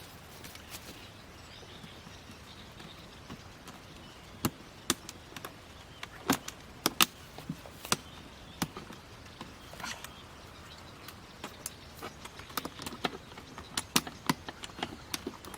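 Irregular light knocks and clicks, some sharper than others, coming sparsely at first and more often in the last few seconds.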